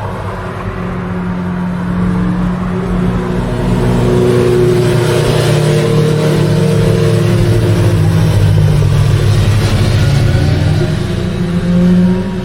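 Honda Rebel 1100's parallel-twin engine and exhaust under way, pulling harder about four seconds in, with its note stepping up and down several times. Rushing wind joins while it runs loud.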